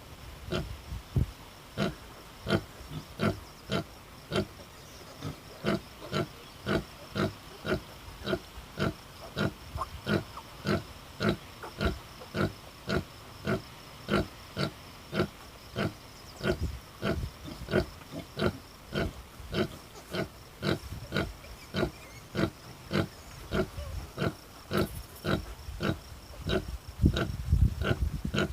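Sow, an American Guinea Hog and Idaho Pasture Pig cross, grunting in a steady, even rhythm of about two grunts a second, the rhythmic grunting typical of a sow nursing her newborn litter. A louder low rumble comes in near the end.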